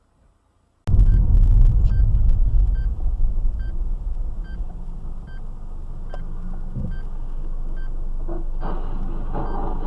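Low rumble of a car driving, picked up inside the vehicle by a dashcam. It starts abruptly about a second in, with a short electronic beep repeating about twice a second, and a rushing hiss grows louder near the end.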